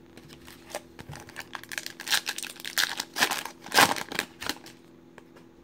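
Foil trading-card pack wrapper being torn open and crinkled by hand, an irregular run of crackles loudest about four seconds in.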